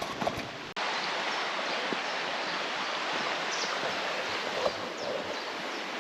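Steady rushing water of a river or waterfall. It starts abruptly just under a second in and then holds an even level.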